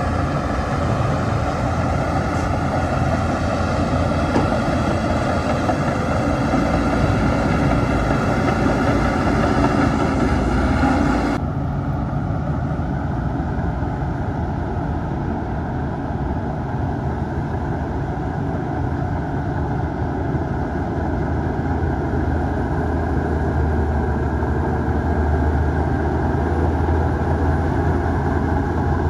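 Heavy diesel earthmoving machinery running steadily, bulldozer and dump-truck engines at work. About eleven seconds in the sound changes abruptly and becomes duller, with less treble.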